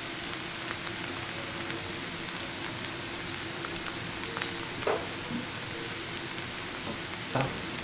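Grated-potato pancakes sizzling steadily as they fry in a pan, with fine crackling and two louder pops in the second half.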